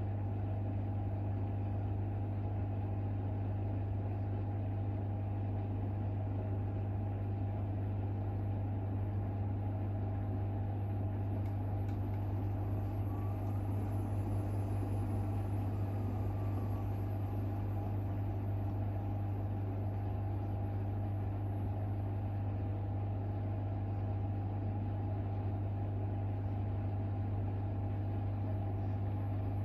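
Hoover H-WASH 500 front-loading washing machine spinning steadily during the second intermediate spin of its synthetic & coloured programme, a spin the title ties to Sudslock, the machine's detection of excess foam. A constant low hum with steady running noise over it, with no change in speed.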